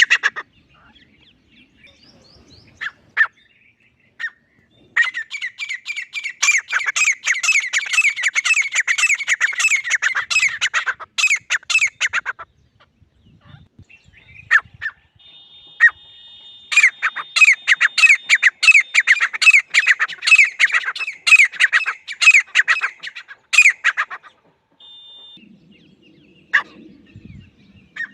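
Grey francolin calling: two long bouts of loud, rapid repeated call notes, each lasting several seconds, with pauses holding only a few single calls between them.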